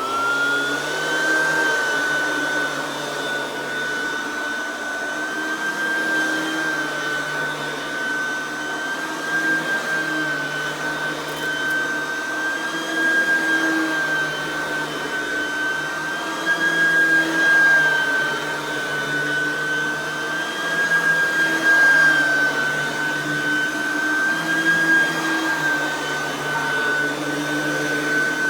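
Oreck XL9100C upright vacuum with a 3.2 amp direct-air motor and aluminium fan, switched on and rising in pitch as it spins up, then running steadily with a high whine that wavers a little.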